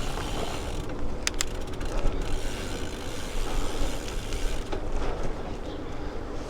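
Bicycle rear-hub freewheel ratcheting in short bursts of clicks while the rider coasts, over a steady low rumble of wind and tyre noise.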